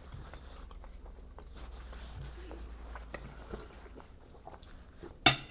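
A person chewing a mouthful of sandwich, with faint paper-napkin rustling and small clicks, and one sharp knock about five seconds in.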